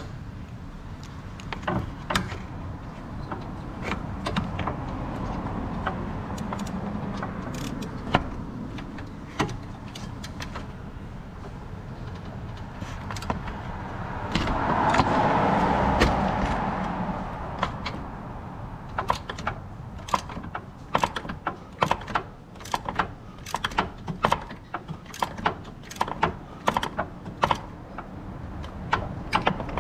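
Scattered metallic clicks and knocks of hand tools at work on a car, coming thick and irregular in the second half, with a swell of noise lasting a few seconds about halfway.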